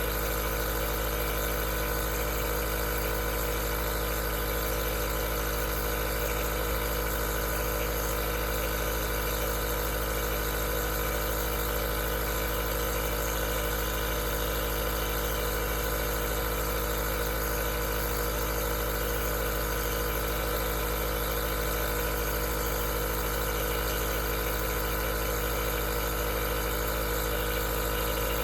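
Aerosol nebulizer's compressor running steadily: an unchanging hum with a buzzing whir, no breaks.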